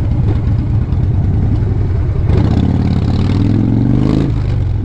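Harley-Davidson Sportster's V-twin engine heard from the saddle while riding: a steady run, then the revs climb for about two seconds as the bike accelerates and drop suddenly near the end at a gear change.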